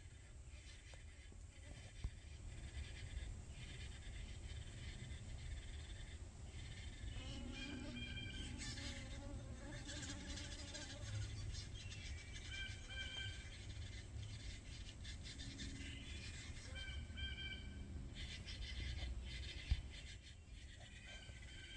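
Yellow-bellied sapsucker nestlings calling from inside the nest cavity: several bouts of short, high, repeated chatter, over a steady low rumble.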